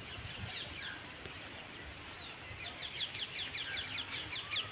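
A bird calling: a few scattered chirps, then about two seconds in a quick run of short, downward-sliding notes, several a second, over a steady outdoor background hiss.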